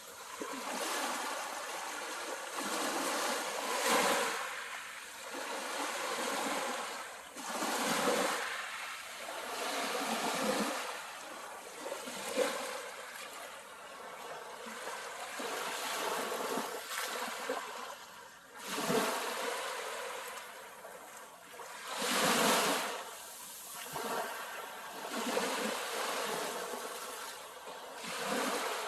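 Sea waves breaking and washing up the shore, the surf swelling and fading again every few seconds.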